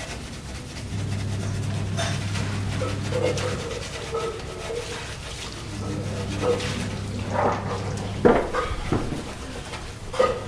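Scrubbing and clattering of gas-stove parts being washed by hand, with scattered knocks of metal parts, the loudest about eight seconds in and again near the end.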